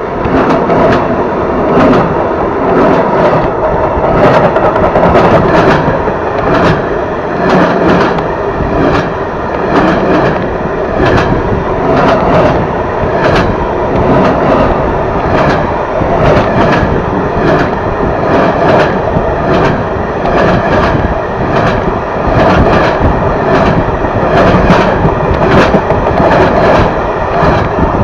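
A train running on rails, loud and steady throughout, its wheels clicking over rail joints in a regular clickety-clack rhythm.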